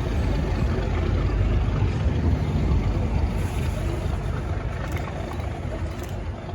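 A railway diesel engine running with a steady low rumble that grows quieter over the last few seconds.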